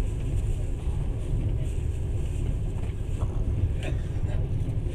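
Passenger train running at speed, heard from inside the carriage as a steady low rumble of wheels and car body.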